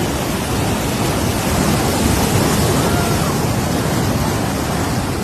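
Steady rush of water pouring fast through a breach channel dug in beach sand, with the surf alongside.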